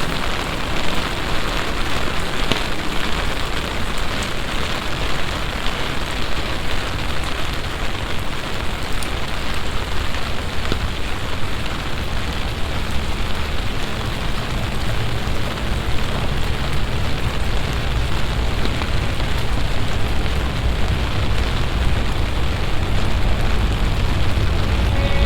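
Heavy summer downpour: a steady, dense hiss of rain, with a low rumble building in the second half.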